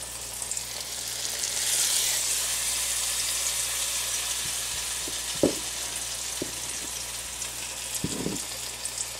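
Breaded zucchini slices frying in a hot pan, a steady high sizzle that swells about two seconds in. A couple of soft knocks sound near the middle and toward the end.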